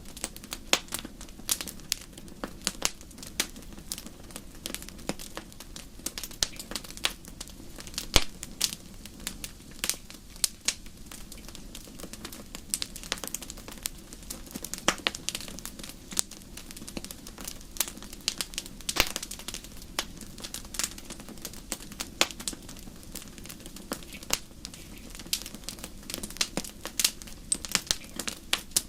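Wood fire crackling: many irregular sharp snaps and pops over a soft steady low background.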